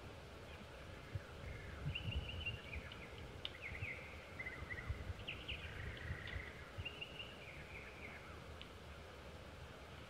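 Bird calls: a run of short chirps and brief trills from about two seconds in until near the end, with a few sharp clicks, over a constant low rumble.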